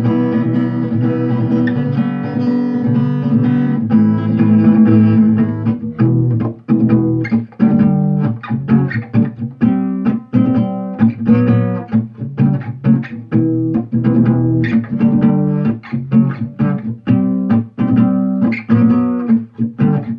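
Acoustic guitar played with percussive knocking strokes. Ringing chords for the first several seconds give way to a steady rhythm of short, damped notes, each with a sharp hit.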